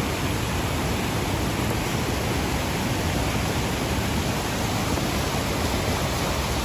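Steady rushing of a large waterfall: an even, unbroken noise across all pitches, heaviest in the low end.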